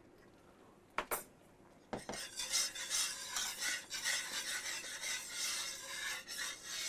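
A brief double knock about a second in, then a whisk scraping steadily round a skillet of thickening sawmill gravy.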